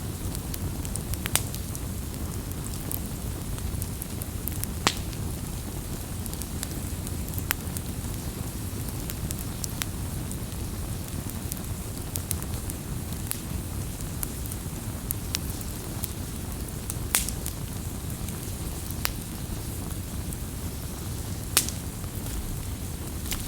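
Campfire burning steadily with a low rumble, crackling and scattered sharp pops of burning wood, several louder pops standing out at irregular intervals.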